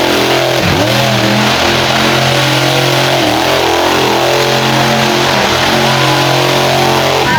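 Monster truck engine revving hard and held at high revs, with brief drops and rises in pitch about half a second in and again around three seconds in.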